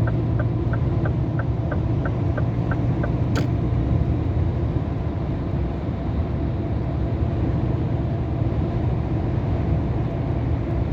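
Scania R500 truck's V8 diesel running steadily under way, heard from inside the cab with road noise. The turn-signal indicator ticks about three times a second during overtaking, stops about three seconds in, and a single click follows.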